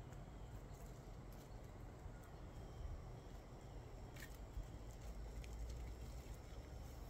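Faint outdoor background with a steady low rumble and a few scattered light clicks and taps.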